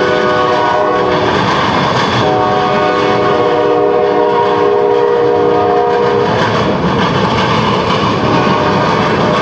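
Locomotive air horn sounding a chord: a short blast ending about a second and a half in, then a longer one from about two seconds to six seconds, over the steady rumble and clatter of a passing train.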